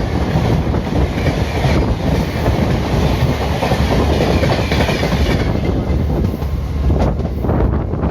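Indian Railways ICF passenger coach running on the track, its wheels rumbling steadily on the rails. The higher hiss drops away about five and a half seconds in.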